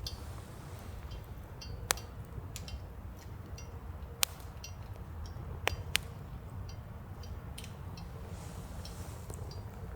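Firewood burning, crackling with irregular sharp pops, a few of them louder, over a low steady rumble.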